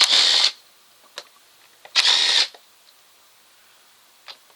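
Power drill running in two short bursts, about half a second each and about two seconds apart, driving out the 8 mm airbox fasteners.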